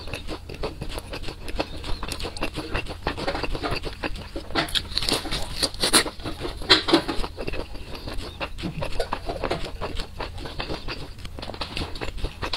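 Close-miked chewing of sauce-coated fried chicken: a steady run of crunching and wet mouth clicks.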